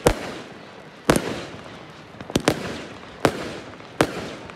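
Aerial fireworks bursting overhead: a run of about six sharp bangs, roughly one a second, with two close together about two and a half seconds in, each trailing off in a fading rush.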